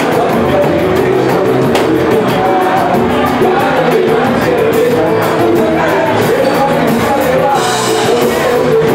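A live band playing, with singing over steady, rhythmic percussion.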